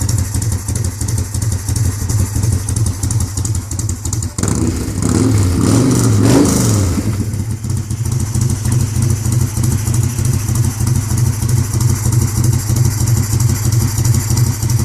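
A 2004 Yamaha Road Star's V-twin engine runs with a deep tone through a custom 2-into-1 exhaust ending in a Harley touring muffler. It idles, is revved once about four and a half seconds in, the pitch climbing and then dropping, and settles back to idle about three seconds later.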